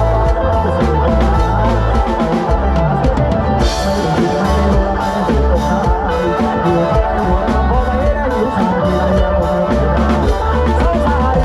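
Loud live band music from a Thai rot hae (parade sound-truck band): a drum kit keeping a steady beat over heavy bass, with a burst of cymbal wash about three and a half seconds in.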